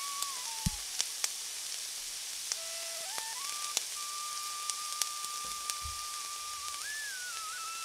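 Garlic and ginger paste sizzling in hot oil in a frying pan, a steady hiss with scattered sharp pops and crackles. A thin background music melody, mostly one held note, plays over it.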